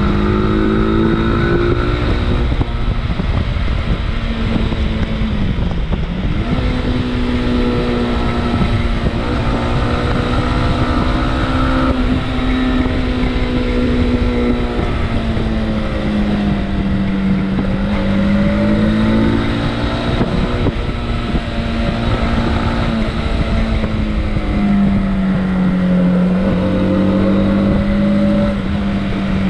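Motorcycle engine running as the bike is ridden, its pitch drifting up and down with the throttle, with sharp dips about six seconds in and again near the end. Wind rumbles over the microphone underneath.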